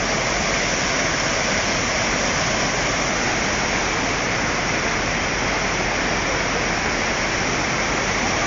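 Steady, loud rush of water, an even wash of noise without breaks or separate events.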